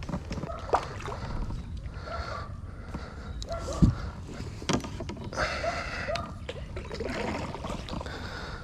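Kayak being paddled: paddle strokes splashing and gurgling in the water, with a few sharp knocks.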